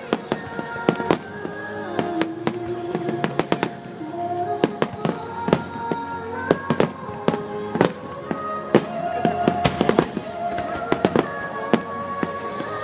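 Fireworks going off in quick, irregular bangs and crackles over music played across the display ground.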